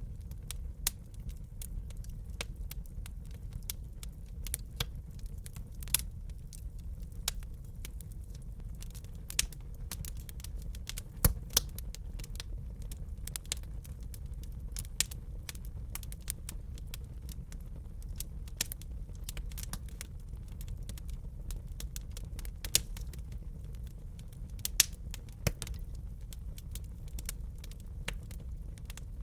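Wood fire crackling in a fireplace: irregular sharp pops and snaps over a steady low rumble of burning, with a few louder pops.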